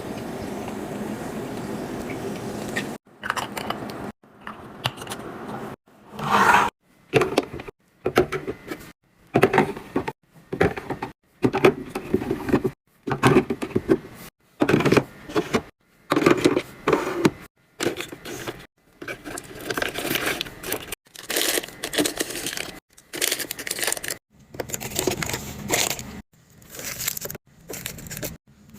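A steady noisy sound for about three seconds. Then a quick run of short, sharply cut snippets of packaging and food items being handled: scraping, crinkling and clinking as groceries are unpacked and set into a fridge, each snippet ending in a sudden silence.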